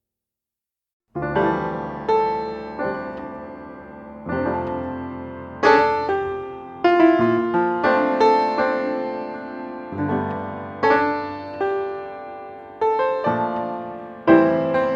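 Background jazz piano music that starts about a second in, with chords struck and left to fade, one after another.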